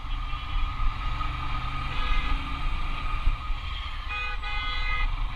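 Motorbike engine running under a low rumble of wind and road noise while riding uphill. About four seconds in, a vehicle horn sounds twice in quick succession.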